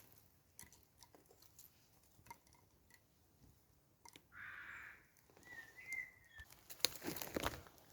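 Small, freshly lit wood campfire crackling faintly, with scattered pops, a short hiss about halfway through, and a denser run of crackles near the end. A brief high whistle sounds a little after the hiss.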